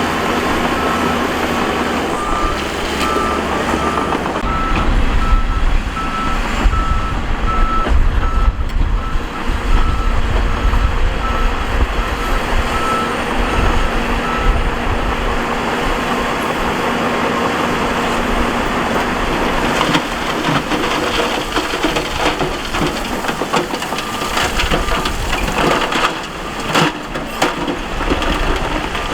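Heavy earthmoving machine's reversing alarm beeping in a steady even rhythm over the low running of a big diesel engine. The beeping stops about halfway through and comes back faintly near the end. The second half is filled with rough rattling and knocking.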